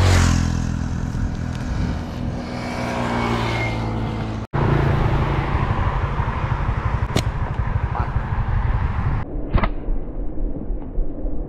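A motor vehicle's engine running steadily for about four seconds, then after a break a low rumbling noise with a couple of sharp clicks.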